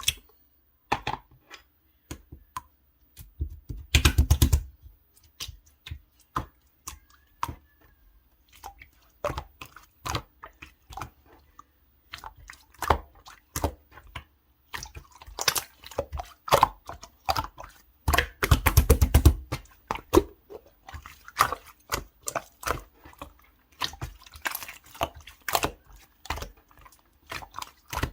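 Clear light-blue slime being squished and poked by hand, making a stream of wet clicks and pops. There are two bursts of rapid crackling, about four seconds in and again around nineteen seconds.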